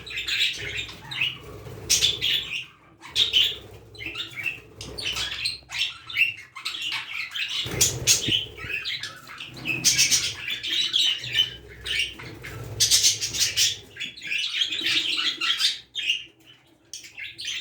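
A pair of budgerigars chattering with rapid, high chirps and warbling, mixed with wing flapping, as the male mounts the female to mate.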